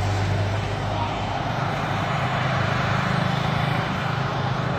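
Jet engines of a widebody airliner taxiing past, a steady rushing noise over a low drone that rises somewhat in pitch about a second and a half in.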